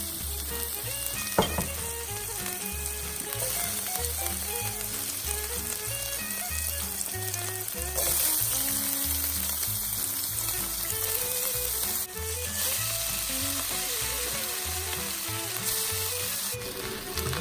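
Food sizzling as it fries in a hot pan, over background music with a stepping bass line. The sizzle changes level abruptly a few times, and there is one sharp knock about a second and a half in.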